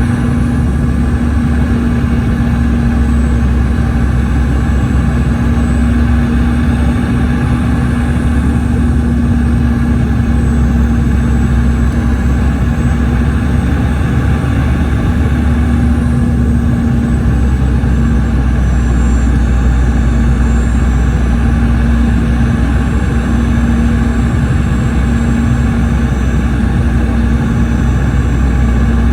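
Steady cabin noise of a Boeing 717 with tail-mounted Rolls-Royce BR715 turbofans: a deep, even rumble with a constant low hum and airflow hiss, heard from inside the passenger cabin.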